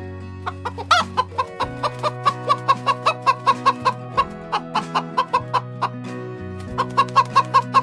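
Chicken clucking in a fast run of short clucks, about three to four a second, pausing briefly twice, over background music with long held notes.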